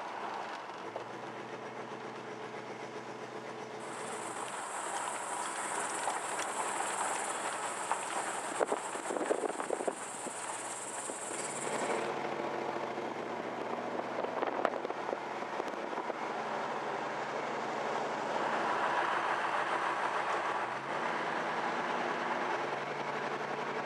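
A vehicle driving on the road, heard from inside: a steady engine hum and road rumble whose pitch shifts a few times, rising once near the end as it speeds up. A high hiss joins for several seconds in the first half.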